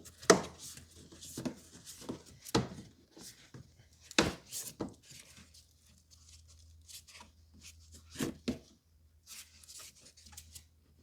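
A rubber insulation strip and plastic trim pieces being pulled and worked loose by hand at the cowl of an engine bay: irregular clicks, knocks and rubbing, the sharpest knocks about a quarter second in and about four seconds in.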